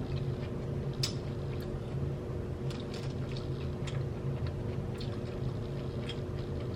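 Close-up chewing of a fried chicken sandwich: irregular wet, clicking mouth sounds every second or so, over a steady low hum.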